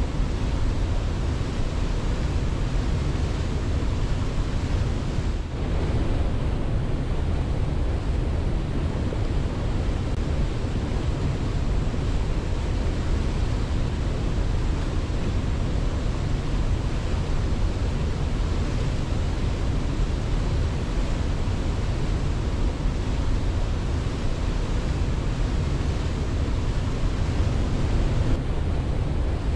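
Steady rushing water, like a waterfall, a dense even noise heaviest in the low range, with a brief slight dip about five and a half seconds in.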